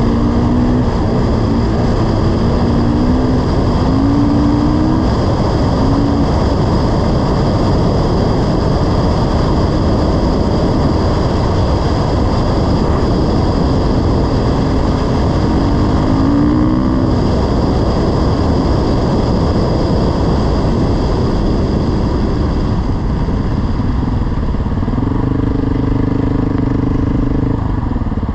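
Dirt bike engine running under way, buried in heavy wind rush, its revs rising and falling in the first few seconds and again about halfway through. Near the end the engine holds a steady note for a few seconds.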